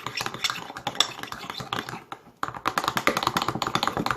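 Fast, irregular clicking and scraping of slime mix being stirred in a small pot, with a short pause about two seconds in.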